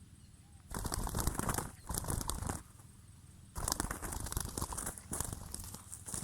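Irregular spells of rustling and scuffling noise, three times, with no clear call or tone.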